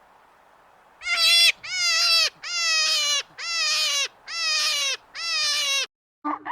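A farm animal calling six times in a row, each call about half a second long, evenly spaced and dropping in pitch at its end.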